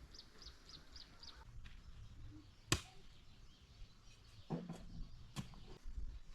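A bird chirps a quick run of about six high notes. A few sharp knocks follow, the loudest about two and a half seconds in.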